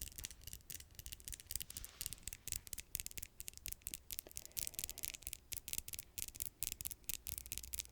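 Fingernails tapping and scratching close to the microphone: a quick, continuous run of crisp little clicks, several a second, with a scratchy rubbing texture.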